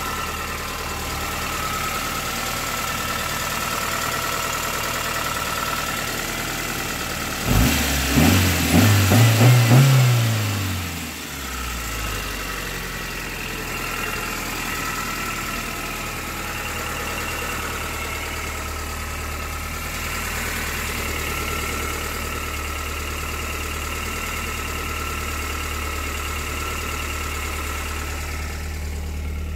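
1986 Toyota Corolla E80's 12-valve four-cylinder engine idling warm. About seven seconds in it is revved in a quick run of throttle blips, then settles back to a steady idle. It runs on a new exhaust and middle muffler, free of exhaust leaks.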